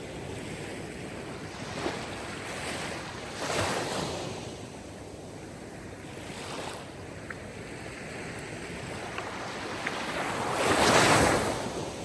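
Sea waves washing onto a shore in slow surges: one about three and a half seconds in, a smaller one near the middle, and the loudest crashing about a second before the end.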